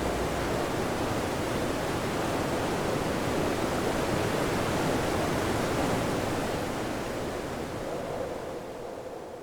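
Goiuri waterfall: water falling with a steady rushing noise that gradually fades over the last three seconds.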